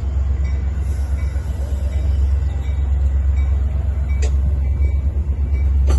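Metra commuter train running, a steady loud low rumble, with one sharp click about four seconds in.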